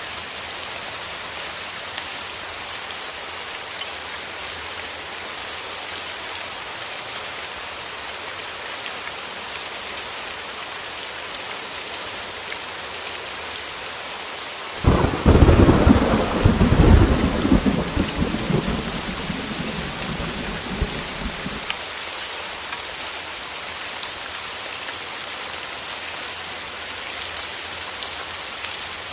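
Heavy rain falling steadily on a window glass. About halfway through, a sudden loud clap of thunder breaks in and rolls on, fading away over about six seconds.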